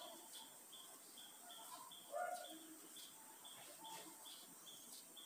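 Faint, evenly repeated high chirp, about two a second, from a bird calling steadily against near silence.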